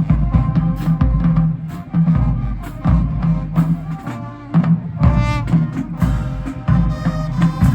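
High school marching band playing its field show: brass over a pounding beat of bass drums and drumline percussion.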